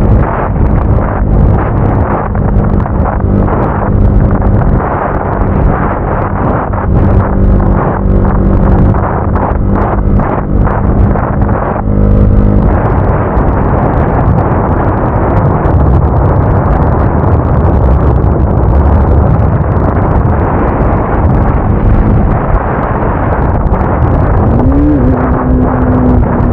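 Motorcycle engine running steadily while riding, almost buried under heavy wind buffeting on the microphone. The engine note climbs briefly near the end, then holds.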